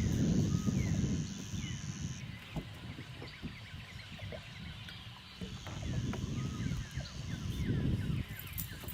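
Birds chirping and calling, with a steady high-pitched buzz that comes twice, stopping about two seconds in and returning near the middle, over low rumbling swells.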